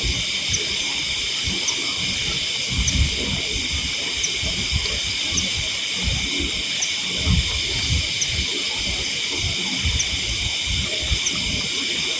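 Steady night-time chorus of insects, a high, even hiss with a faint tick about once a second. Under it are irregular low rumbles and knocks.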